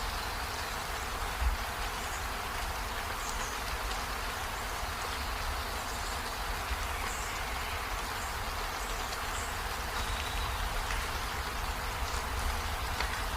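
Steady rain falling, an even hiss with a low rumble beneath it and a few faint, short high chirps now and then.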